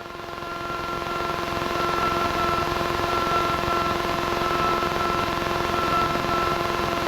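Single-engine Piper's piston engine running steadily on the landing rollout, heard inside the cabin as a drone of several steady tones that grows louder over the first two seconds, then holds.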